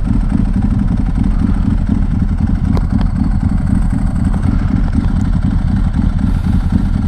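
Ducati 1098's L-twin engine running while the bike is ridden, a steady low rumble mixed with wind rushing over the microphone. There is a single sharp click about three seconds in.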